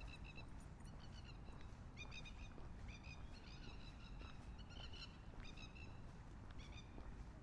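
Birds calling: repeated short bursts of chattering chirps, over a low background rumble.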